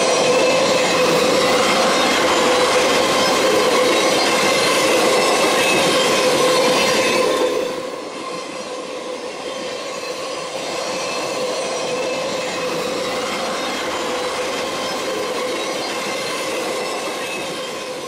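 Union Pacific passenger cars of a steam excursion train rolling past on the rails. Steady wheel-on-rail noise runs through it with a steady squealing tone. The sound drops in level about seven and a half seconds in and then carries on more quietly.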